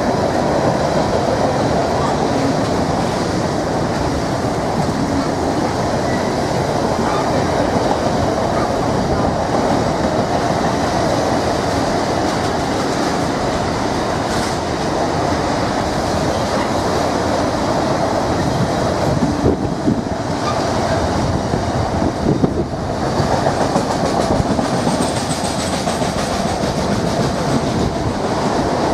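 Long freight train of enclosed car-carrier wagons rolling steadily past on the rails, with a few louder knocks about two-thirds of the way through.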